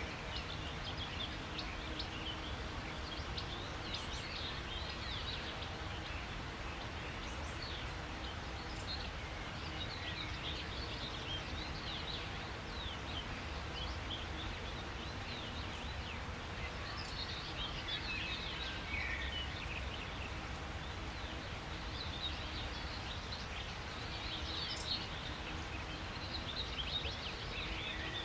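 Many small birds chirping and calling over a steady low background rumble, their calls coming in clusters of quick high chirps and trills.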